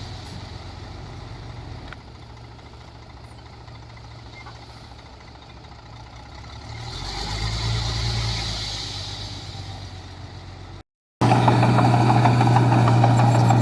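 Heavy diesel earthmoving machinery running: a steady engine hum that grows louder around the middle and fades again. After a sudden cut, a much louder, closer diesel engine runs with a strong low drone and a dense rattle.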